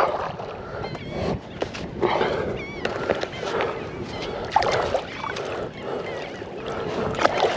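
Water splashing and sloshing around a kayak in uneven bursts, with small birds chirping repeatedly in the background.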